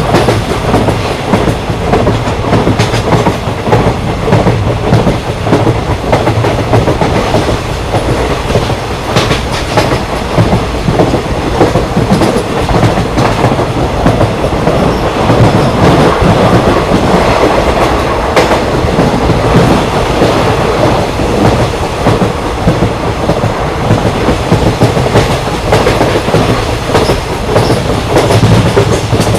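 Indian Railways passenger coach running at speed, heard from on board: a steady rumble with clickety-clack of the wheels over rail joints.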